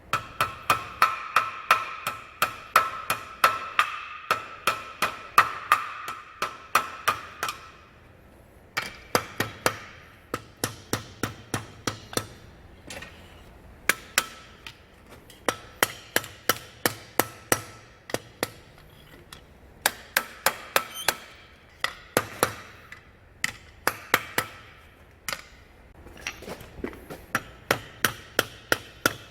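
Blacksmith's hammer striking hot leaf-spring steel on an anvil, about three blows a second in runs of several seconds with short pauses between them. During the first run the anvil rings with a clear tone after each blow.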